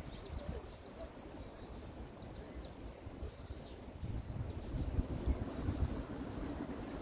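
Small birds chirping in short, high, falling calls scattered throughout, over a low rumble that grows louder about four seconds in.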